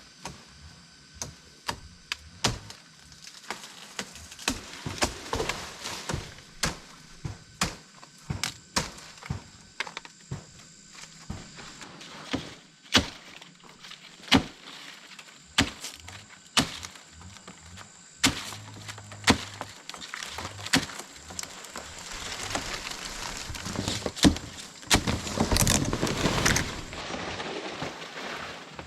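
A blade chopping at wood in repeated sharp strikes, nearly one a second at first and more spaced out later. Rustling runs between the strikes and grows louder for a few seconds near the end.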